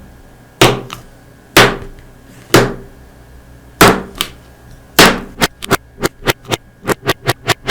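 A series of sharp knocks, at first about a second apart, then quickening near the end into a rapid run of about four taps a second.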